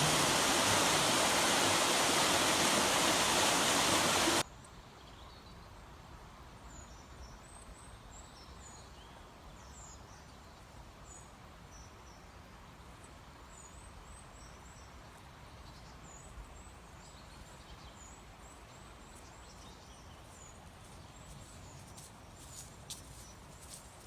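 A loud, steady rushing noise cuts off abruptly about four seconds in. Quiet outdoor ambience follows, with small birds giving short, high chirps again and again, and a few light clicks near the end.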